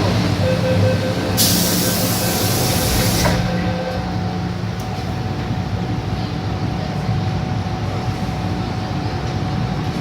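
MTR Island line electric train running, with a steady rumbling hum and a faint constant whine. About a second and a half in, a burst of hissing air lasts about two seconds.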